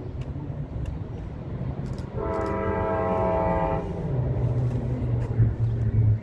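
Metro-North commuter train sounding its horn in one chord lasting about a second and a half, a couple of seconds in, over the steady low hum of the train running.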